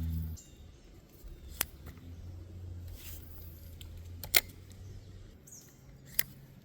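Three sharp, short knocks or clicks, about two seconds apart, over a faint low hum.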